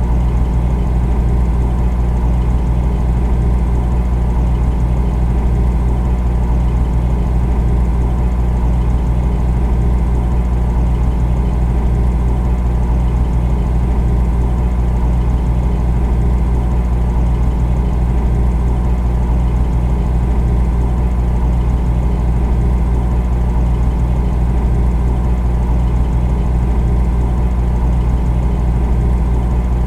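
Refrigerator running with a steady, unbroken low hum.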